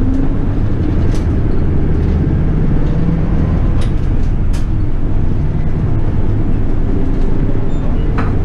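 Toei city bus running along the street, heard from on board: a steady low engine hum and road noise, with a few short clicks and rattles.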